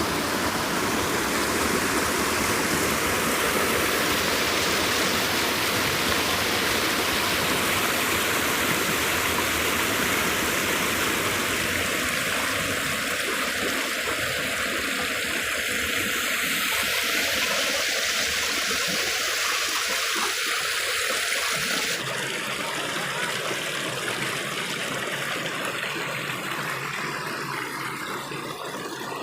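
Stream water rushing steadily over rocks, a dense even rush; about 22 seconds in it becomes a little quieter and less hissy.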